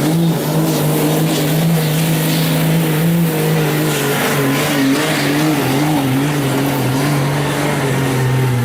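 Diesel pickup truck's engine running hard at high, fairly steady revs under full load while pulling a sled. The pitch wavers and drops a little about halfway through.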